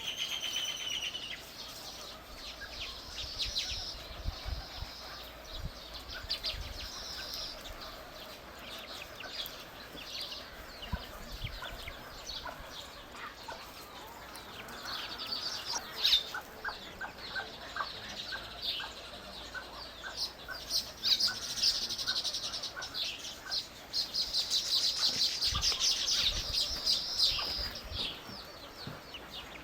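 Small birds chirping and twittering in quick runs of short high notes, growing dense and busy about three-quarters of the way through.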